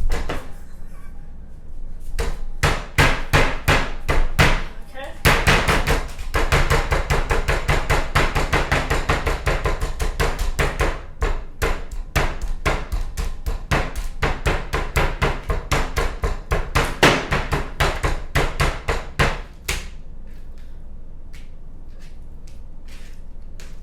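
Meat mallet pounding chicken pieces under a plastic bag: rapid repeated blows, several a second, with a brief pause about five seconds in, stopping a few seconds before the end.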